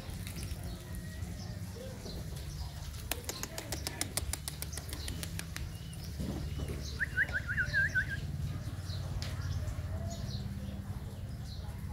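Small birds chirping: a quick run of about six chirps about seven seconds in, with scattered faint higher chirps, over a steady low rumble and a patter of rapid clicks a few seconds in.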